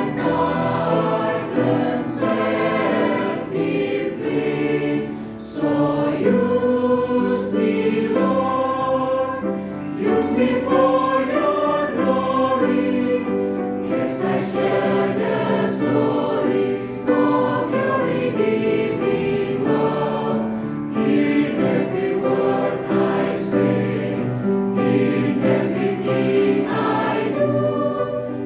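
Choir singing a sacred anthem, several voice parts sounding together in sustained notes.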